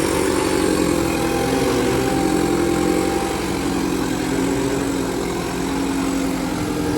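Kubota 5501 tractor diesel engine running steadily, its pitch wavering slightly.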